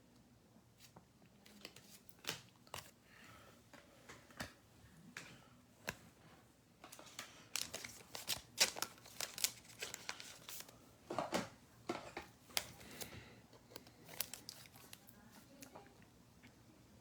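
Faint rustling, crinkling and light clicks of trading cards and plastic card sleeves being handled, busiest in the middle.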